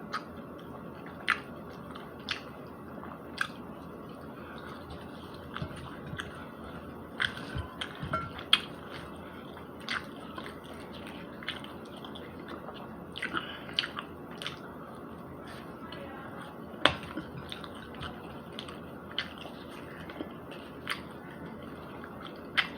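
A person chewing a bite of fried chicken nugget close to the microphone: irregular short wet mouth clicks and smacks over a low steady hiss.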